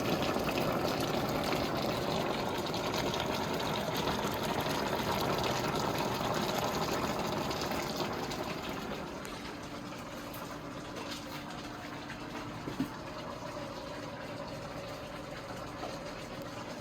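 Pot of smoked turkey necks bubbling steadily on the stovetop as the liquid cooks down, easing a little about nine seconds in; a single short click near the thirteen-second mark.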